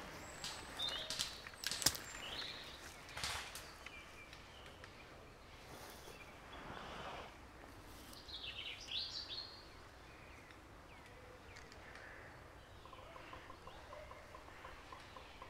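Woodland birds chirping in short calls against quiet outdoor ambience. A few sharp clicks and rustles come in the first two seconds, and a faint rapid trill sounds near the end.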